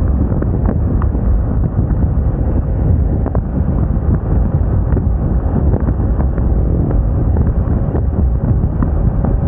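Steady wind rushing over the microphone while riding a Moda Moca 110 scooter, with the scooter's running engine and road noise underneath.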